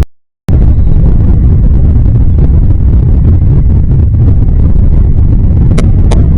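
Loud, steady low rumble of wind buffeting the microphone, with a brief dropout about half a second long at the start. Two short high sounds come close together near the end.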